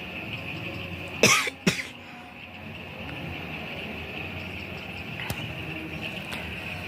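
A person coughing twice in quick succession about a second in, over a steady high-pitched background drone.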